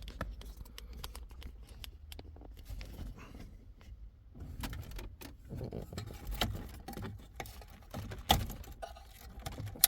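Scattered clicks, taps and light rattles of hands handling small hard parts, with a louder knock near the end, over a faint low hum.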